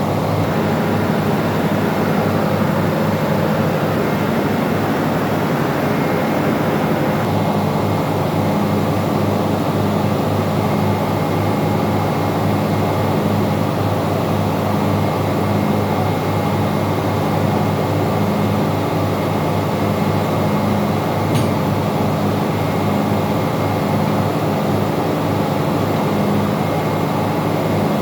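Steady drone of a ship's engine-room machinery, a deep hum with a slow regular pulsing about every second and a half.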